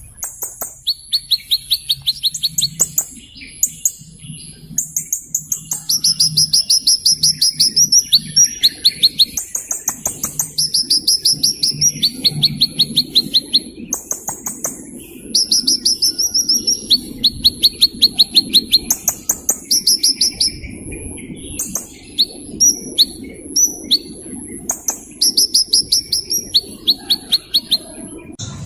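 Small bird singing: high, fast trills of rapidly repeated notes, in bursts of about a second one after another with short gaps, over a faint low hum.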